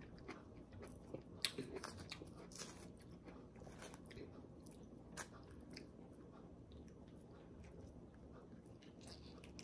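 Faint chewing of juicy pomelo flesh along with the soft crackle of its segment membrane being pulled apart by hand. These come as scattered small clicks and snaps, a few slightly louder than the rest.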